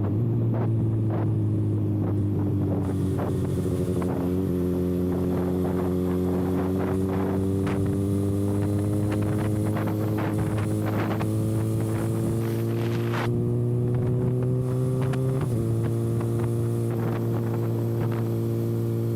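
Kawasaki ZX-6R inline-four running with its exhaust canister removed, cruising steadily. The engine note climbs slowly for most of the stretch, then dips slightly about three quarters through. Wind buffets the microphone.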